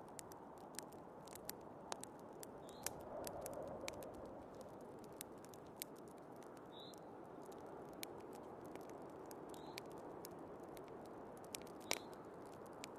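Wood fire crackling in a fireplace, with many sharp pops and one louder pop near the end, over the steady hiss of wind from a snowstorm.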